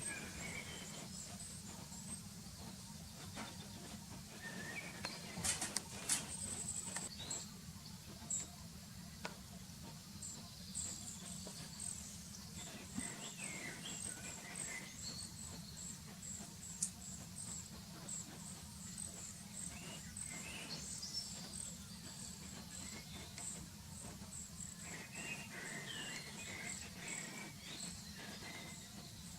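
Thin, very high begging calls of a hungry red-breasted flycatcher, repeated about once or twice a second, with a few lower chirps mixed in. A steady low hum runs underneath.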